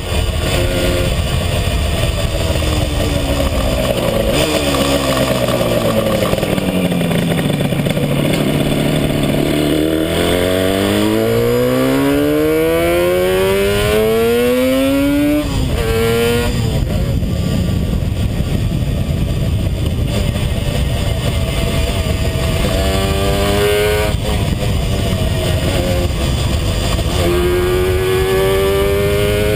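A 1975 Yamaha RD350's air-cooled two-stroke parallel twin on the move, with wind rushing over the microphone. The engine note falls as the bike slows, bottoms out about a quarter of the way in, then climbs steadily until an upshift breaks it about halfway; it pulls up through the gears again with another shift later and is climbing near the end.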